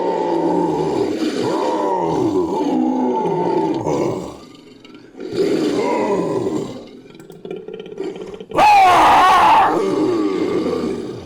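Sound-effect roars in the manner of a big cat, made for an invented creature: three roars. The first is long and falls in pitch, the second is shorter, and the third, starting sharply near the end, is the loudest and highest.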